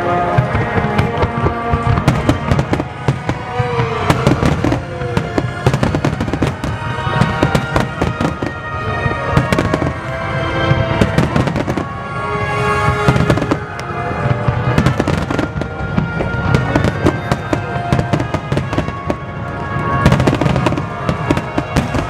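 Aerial firework shells bursting in quick, dense succession, bang after bang, over music played along with the display.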